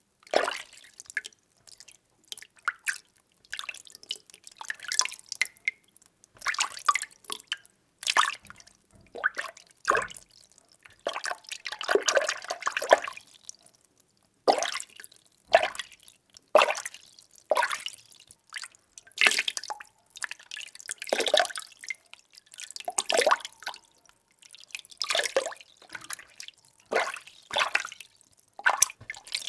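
Water being stirred by hand in a small vessel: irregular sloshes and gurgles about once a second, with a longer swirling stretch about halfway through.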